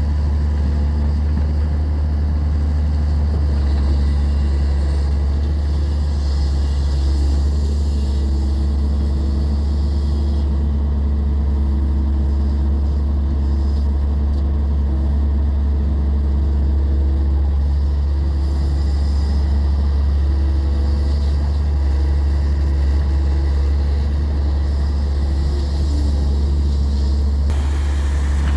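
Heavy diesel machinery of an excavator loading a dump truck running steadily, a deep even drone. A brighter hiss joins near the end.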